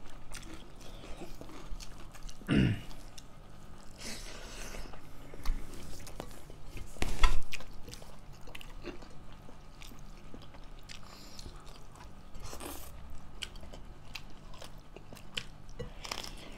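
Close-up eating sounds: chewing and biting through a vegetarian rice meal, with many small wet clicks and crunches and a louder noise about seven seconds in.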